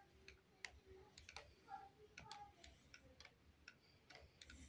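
Near silence, with faint, irregular small clicks scattered through it.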